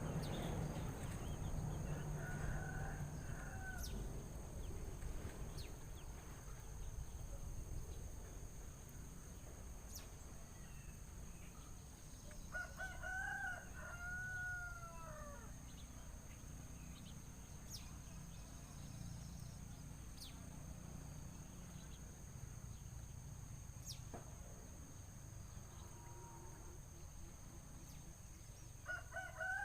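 A rooster crowing faintly, several times: a call about two seconds in, a longer rising-then-falling crow near the middle, and another starting at the very end. A steady high hum and a low rumble run underneath.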